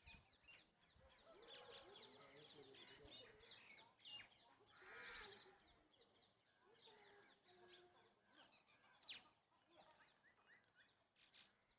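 Faint myna calls: a busy run of short chirps and whistles, with a longer harsh call about five seconds in and a sharp, louder note about nine seconds in.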